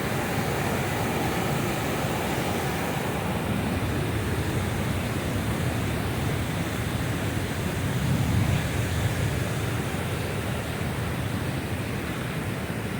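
Steady rush of creek water pouring out of a spillway, with a low rumble on the microphone that swells about eight seconds in.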